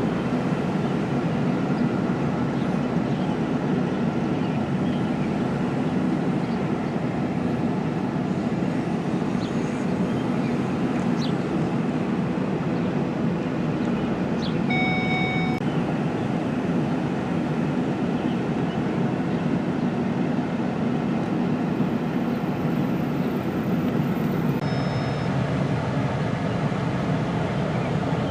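Steady, even vehicle running noise, with a short electronic beep about halfway through.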